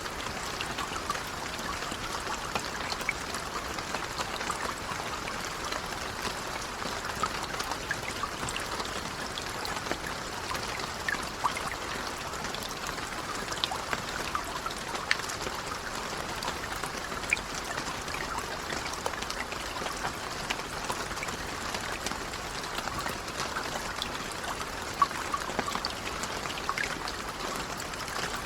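Steady gentle rain, a constant hiss with scattered individual drop ticks.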